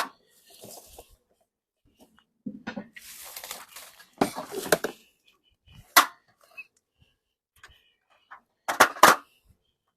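Wooden equipment being handled: a few sharp knocks and clunks with scraping and rustling between them, the loudest a double knock near the end.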